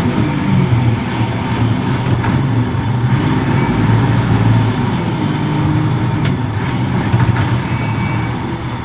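Heavy diesel engine of a container-port reach stacker running steadily, a low drone whose pitch wavers slightly.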